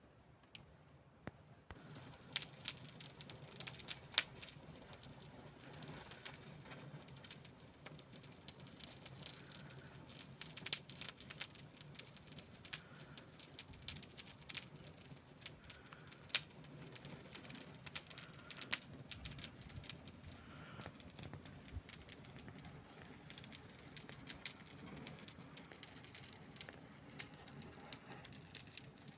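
Wood fire crackling, with irregular sharp pops and snaps over a soft, steady hiss; the crackling starts about two seconds in.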